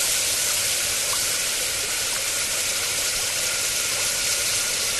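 Steady rushing hiss of the water quench on a freshly extruded aluminium tube still at about 500 °C, as the hot tube is cooled in water.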